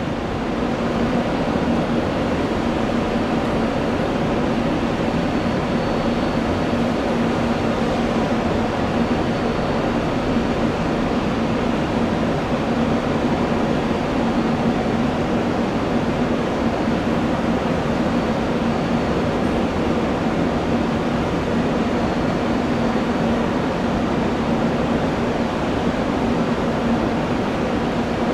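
Airliner jet engines running at a steady idle, an even rushing noise with a constant low hum underneath.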